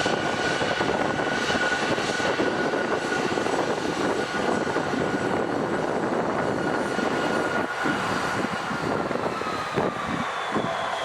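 Airplane engines running: a steady rushing noise with a high whine that slides slightly lower in pitch near the end.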